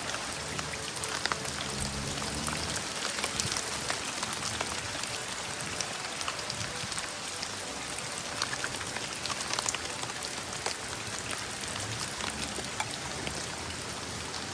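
Steady rain falling: an even hiss with many separate drops ticking.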